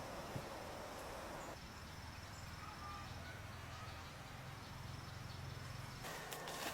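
Faint outdoor ambience with an insect trilling steadily at a high pitch. Near the end, scattered clicks and rustles begin.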